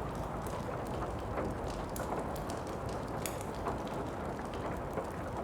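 Steady rain hiss with a fireplace crackling over it: scattered sharp pops and ticks.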